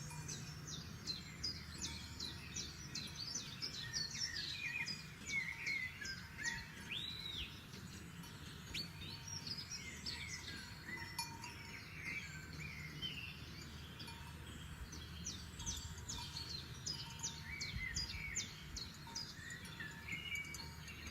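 Several forest songbirds singing together: many quick, high chirps, trills and short whistled phrases overlapping, over a steady low background noise.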